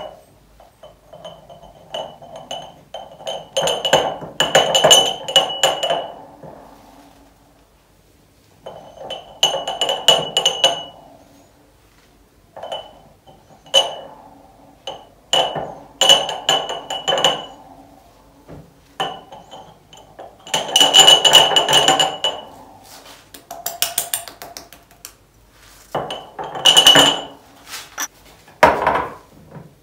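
Dry spices or pulses poured into glass jars in a handful of rushing bursts of one to three seconds each, the jars ringing as they fill. Glass jars and lids clink in between.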